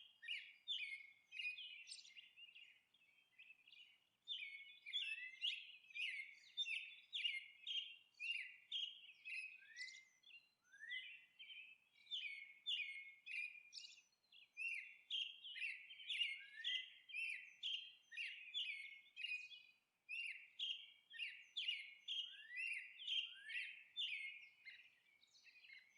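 Small birds chirping faintly in quick runs of short, high chirps, about two a second, with a brief pause a few seconds in.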